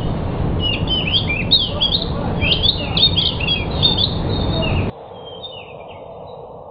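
Decu (pied bushchat) singing: a quick run of short, sweeping chirped notes over a loud steady hiss. Both drop away suddenly about five seconds in, leaving a few faint notes.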